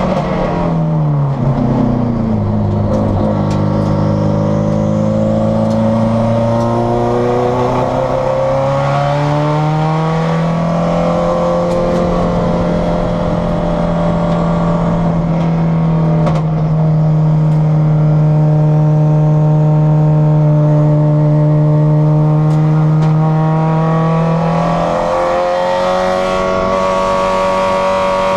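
Turbocharged Subaru STI flat-four race engine at racing pace, heard from inside the stripped, caged cabin. The revs drop sharply in the first two seconds as it slows, climb steadily for several seconds under acceleration, hold at one steady pitch for a long stretch, then step up again near the end.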